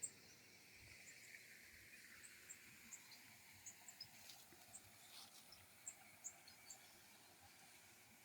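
Near silence: faint rural outdoor ambience with scattered short, high chirps.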